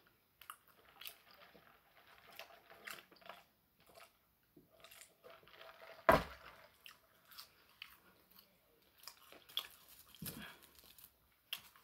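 Close-up chewing and crunching of fast food, with scattered small mouth clicks, and a sharp knock about six seconds in.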